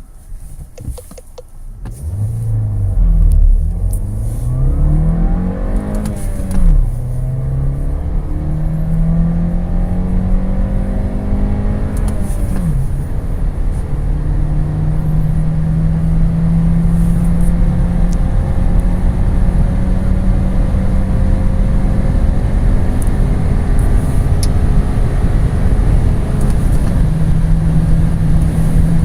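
Volkswagen Passat B8 1.5 TSI turbocharged four-cylinder petrol engine accelerating hard through the gears of a six-speed manual gearbox. The revs climb, drop at each gear change, then rise slowly and steadily in a tall gear as the car pulls towards high speed.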